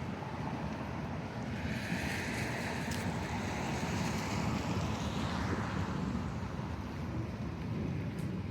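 Wind buffeting the microphone: a steady, flickering low rumble, with a brighter hiss swelling for a few seconds in the middle.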